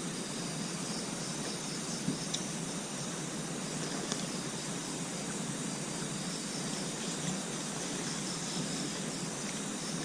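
Steady outdoor night ambience: a constant hiss with insects chirping in high, steady tones, and a few faint clicks.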